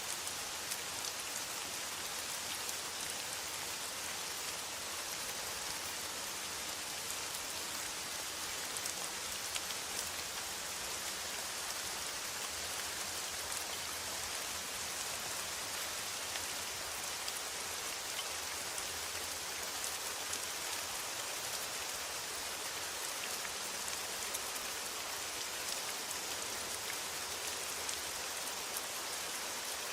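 Steady rain falling on a metal roof: an even hiss with many small drop strikes ticking through it.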